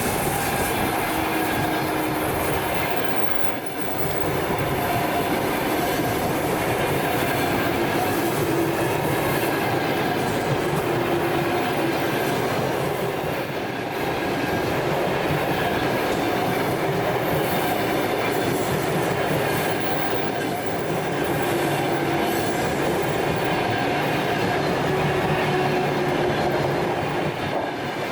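Passenger train rolling steadily past on the rails: a continuous rolling rumble with wheels clattering over the rail joints and faint whining tones from the wheels.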